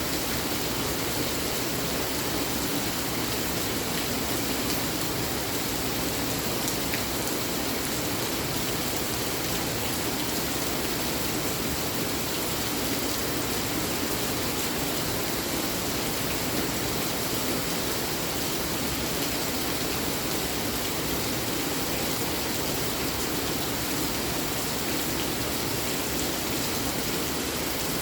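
Steady rain falling, an even, unbroken hiss with now and then a faint tick of a drop.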